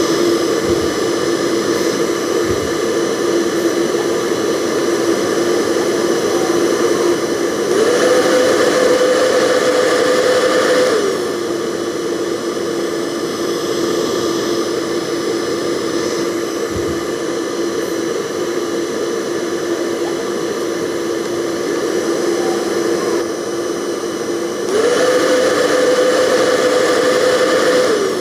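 Hair dryer running, a steady rush of air over a motor whine. About 8 s in and again about 25 s in the whine jumps up in pitch and the sound gets louder for about three seconds, then drops back, as if switched to a higher speed and back.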